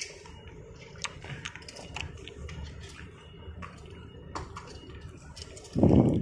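Light clicks and taps of small toy cars and their cardboard and plastic packaging being handled. A louder, low, muffled sound comes in near the end.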